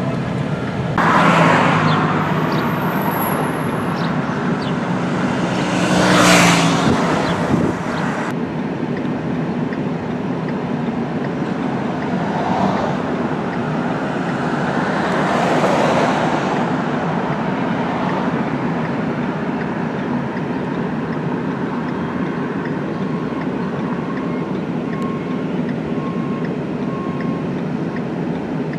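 Steady road traffic noise, with several vehicles passing that swell and fade; the loudest pass is about six seconds in.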